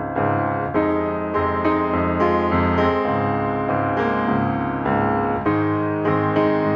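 Piano music, a run of notes struck several times a second.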